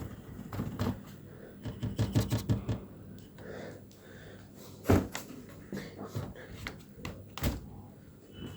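A quick run of clicks about two seconds in, like keys being tapped, then two separate sharp knocks.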